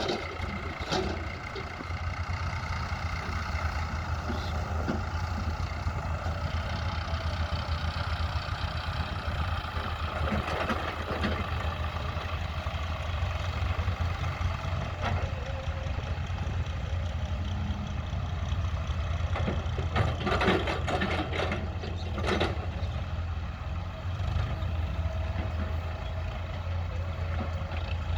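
Tractor's diesel engine running steadily at a low pitch, with a few clanks about twenty seconds in.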